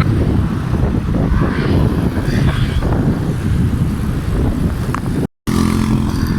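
Steady low rumble of wind and road noise from riding a bicycle along a road, with vehicle noise in it. It drops out to silence for an instant about five seconds in.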